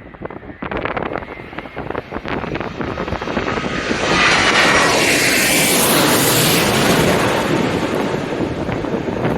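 Jet airliner passing low overhead on final approach. Its engine noise swells over a few seconds to a loud peak about four seconds in and holds there, while gusty wind buffets the microphone throughout.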